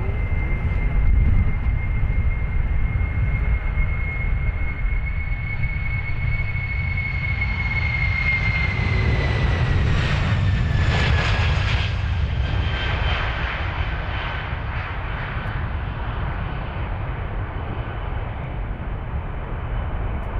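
Boeing 747-400 jet engines passing by: a low rumble under a steady high whine, which drops in pitch about halfway through as the aircraft goes past.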